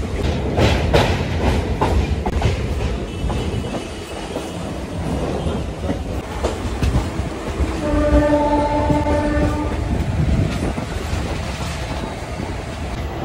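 Local electric passenger train running, with a steady rumble and rail clatter heard at the open doorway. A train horn sounds for about two seconds past the middle.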